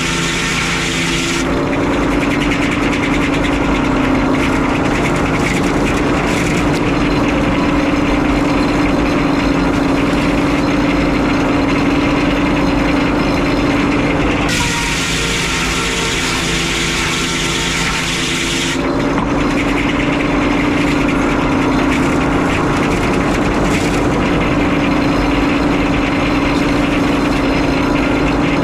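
Frick 01-C circular sawmill running: a loud, steady mechanical drone with a strong hum. The sound changes for about four seconds around the middle, then settles back into the same drone.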